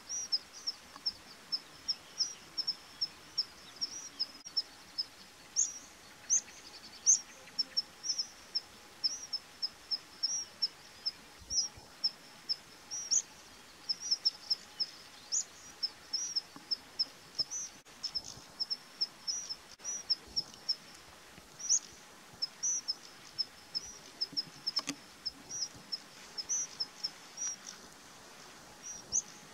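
Small birds chirping continuously: short, high notes several a second, some with quick rises or falls in pitch.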